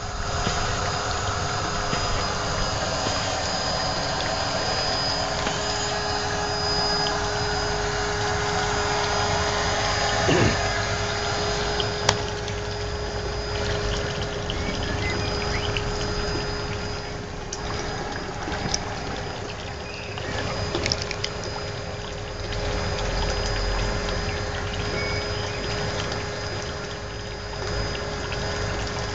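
A pump running with water flowing: a steady hum under a continuous rush of water, with a few small clicks.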